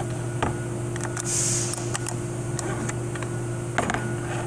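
A few scattered light clicks of metal transmission parts and tools being handled, with a short hiss about a second in, over a steady background hum.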